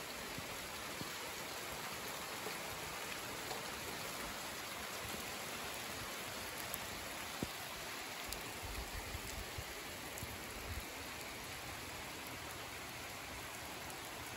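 Steady rainfall on leaves, trees and wet ground, an even hiss with scattered close drops ticking now and then.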